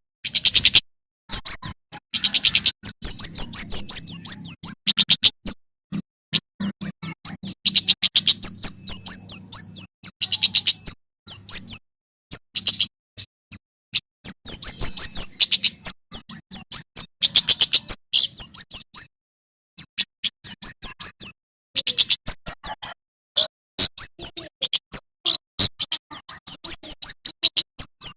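Male prenjak keres (kemade jawa) singing: fast runs of sharp, high chirps in bursts of a few seconds with short breaks between them.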